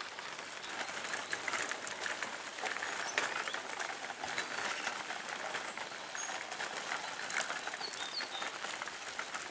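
Outdoor ambience: a steady hiss with many small crackles, and a few faint bird chirps in the second half.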